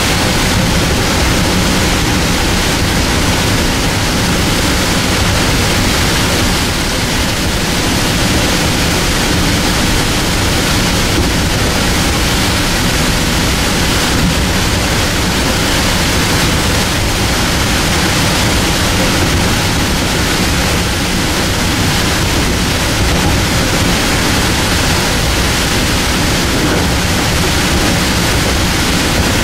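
Steady rush of a Metro-North M2 electric multiple-unit train running along the line, heard from on board, with a faint low hum beneath the noise.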